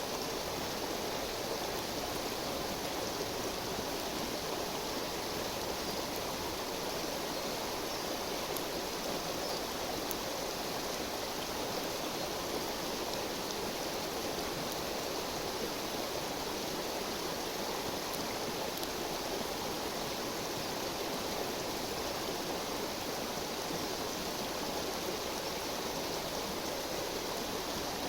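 A river flowing steadily, its rushing water a constant even noise. A few faint crackles from the wood fire show through now and then.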